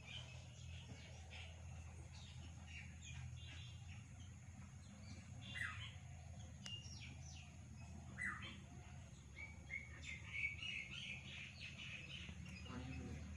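Faint chirping of small birds: many short, high calls scattered throughout, some sweeping downward and busier near the end, over a low steady hum.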